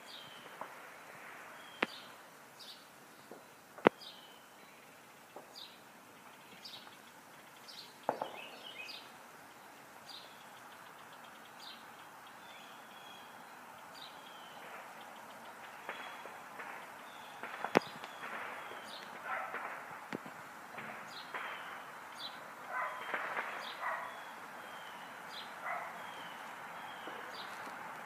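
A songbird repeating short, high chirping notes every second or so, with a few sharp clicks standing out among them.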